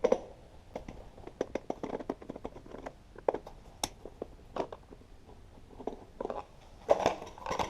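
Two screws being backed out of a small engine's top cover with a hand tool, and the cover worked loose: a run of small, irregular clicks and ticks, with a louder clatter about seven seconds in.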